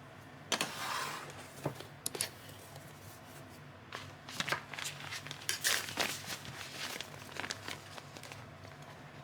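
Irregular crinkling and rustling, like plastic or paper being handled, with scattered sharp clicks.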